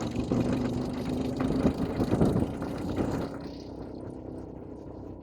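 ATV (quad bike) engine running with a steady drone, louder for the first three seconds and then easing off.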